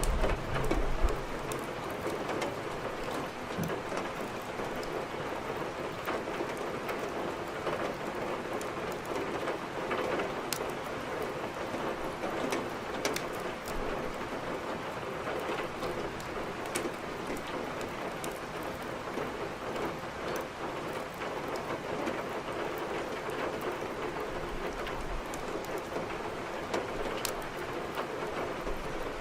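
Steady rain falling, with scattered sharp crackles from a burning wood fire. A low rumble comes at the very start and again near the end.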